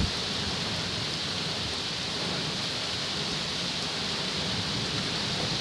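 Heavy rain falling steadily in a thunderstorm, with a low rumble underneath.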